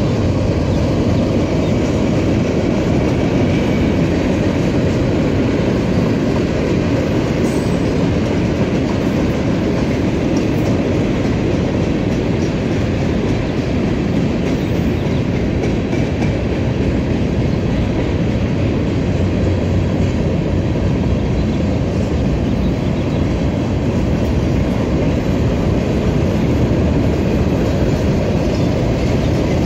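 Cars of a mixed freight train (hoppers, boxcars, tank cars) rolling past steadily: a continuous rumble of steel wheels on the rails, with faint clicks now and then.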